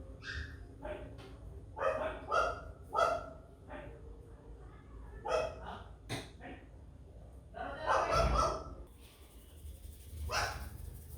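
A dog barking, in short barks spread out irregularly, with a longer run of barking about eight seconds in.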